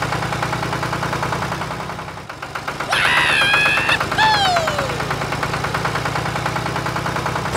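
Tractor engine idling with a steady, rapid chugging beat. About three seconds in, a louder high pitched sound with a wavering, sliding pitch lasts about a second, followed by one falling whistle-like glide.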